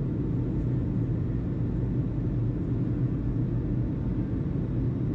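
Steady low rumble with a constant low hum, unchanging throughout.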